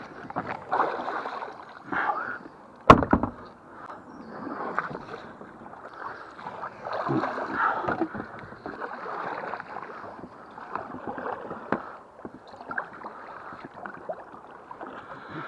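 Kayak paddle strokes and water sloshing and splashing around the hull, in uneven swishes, with one sharp knock about three seconds in.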